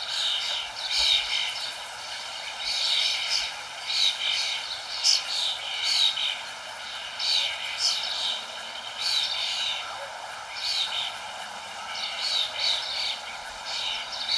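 Songbirds chirping, short falling chirps repeated about once a second, over a steady background hiss.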